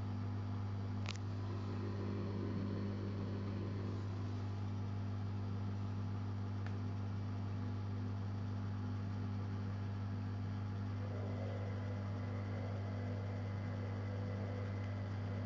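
Zanussi Jetsystem Turbodry ZWD 1000 washer-dryer running with a steady electrical hum, and a single short click about a second in.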